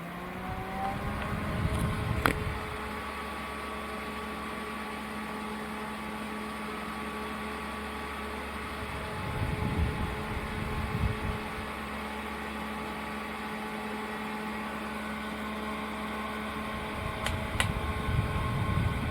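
Small battery-powered desk fan running: a steady motor hum. Its airflow buffets the microphone as a low rumble about every eight seconds, and there are two sharp clicks, one a couple of seconds in and one near the end.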